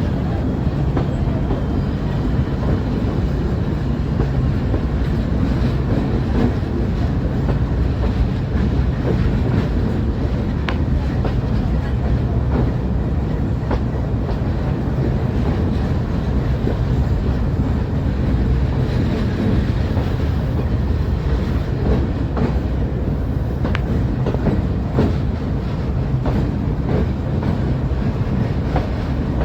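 Metre-gauge passenger train running at speed: a steady low rumble of the coaches on the track, with sharp wheel clicks every few seconds.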